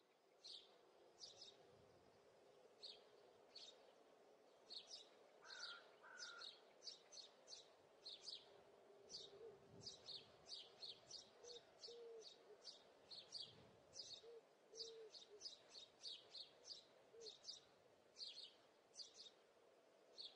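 Faint, repeated short chirps of a small bird, one to three a second in irregular runs, over a low steady hum.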